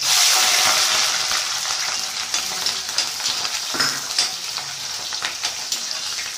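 Shallots and green chillies hitting hot oil in an aluminium kadai: a sudden loud sizzle that eases slightly into steady frying, with a spatula stirring and clicking against the pan.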